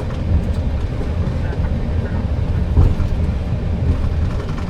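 Steady low rumble inside a Boeing 737 cockpit as the airliner rolls along the ground after touchdown, engines at idle and wheels on the pavement, with one bump a little past halfway.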